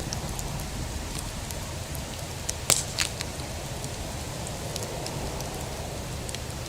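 Bonfire crackling, with scattered small pops and two louder pops in quick succession about three seconds in.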